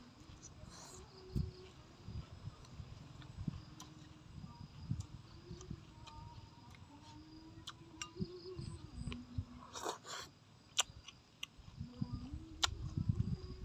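A man chewing food close to the microphone, with irregular soft thumps and wet mouth clicks and smacks, over a faint steady insect drone.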